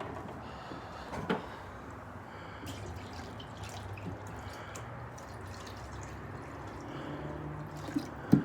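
Water running into a cat's water bowl, a steady trickle, with a sharp knock about a second in and two more near the end.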